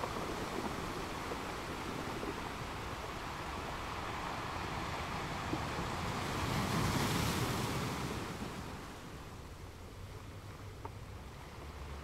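Ocean surf washing onto a sandy beach: a steady rush of waves, with one swelling to a louder crash a little past the middle before ebbing away.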